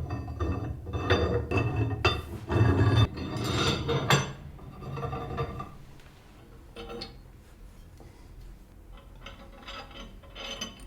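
Hand work on metal parts: rubbing, scraping strokes for about four seconds, then lighter clicks and taps.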